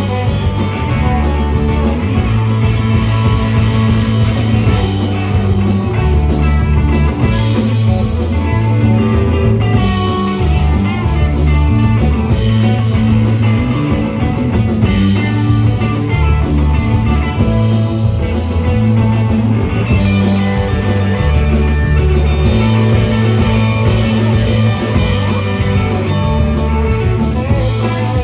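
Live rock band playing an instrumental break, led by guitar over bass and drum kit.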